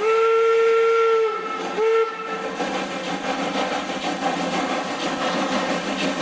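Locomotive whistle sounding a long blast, then a short one, over the steady running noise of the train.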